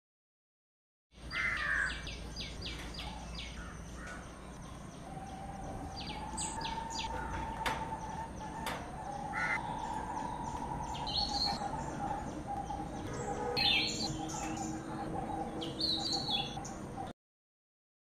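Birds calling, starting after about a second of silence: short trains of rapid, repeated high notes come in several times, over a faint steady tone and low background rumble.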